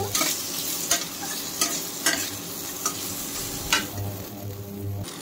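Chunks of young jackfruit and potato sizzling in oil in a stainless steel kadai while being stirred with a metal spatula, which clinks and scrapes against the pan several times.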